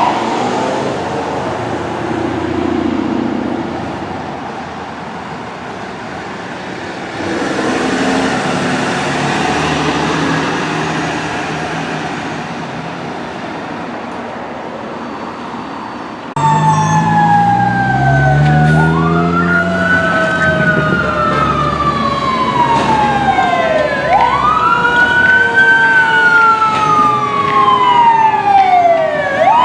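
Fire apparatus responding under siren: after a quieter stretch of road noise, a sudden cut about halfway through brings a loud electronic wail rising and falling about every five seconds. Over it a second siren tone glides slowly down in pitch, and a heavy diesel engine revs up as the rig pulls away.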